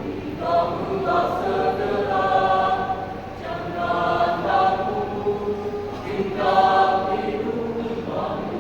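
Youth choir singing phrases of long held notes, with brief breaks between phrases about three and six seconds in.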